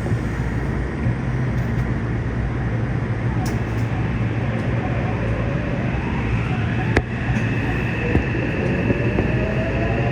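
Yokohama Subway 3000N train's Mitsubishi IGBT-VVVF inverter and traction motors whining upward in pitch as the train starts to pull away, over the car's steady hum. A sharp click about seven seconds in.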